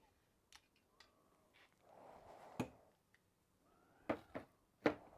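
Soft clicks and taps of metal tools being handled while measuring an engine cylinder, with faint breathing between them.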